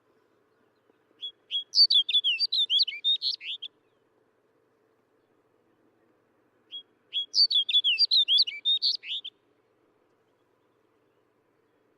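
Snow bunting singing: two short warbling song phrases of quick, whistled notes, each about two and a half seconds long, a few seconds apart.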